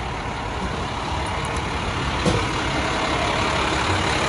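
Fire trucks' engines running steadily, a low rumble with a hiss of street noise, and a short sharp sound about two seconds in.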